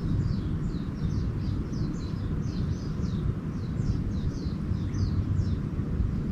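Small birds singing: a busy run of short, high, downward-slurred chirps, several a second, over a steady low rumble.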